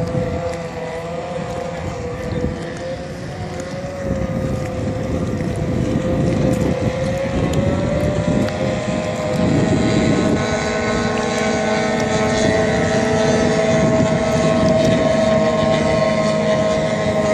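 Racing boat engine running at high revs: a steady high whine that creeps up in pitch, growing louder about four seconds in and again about ten seconds in.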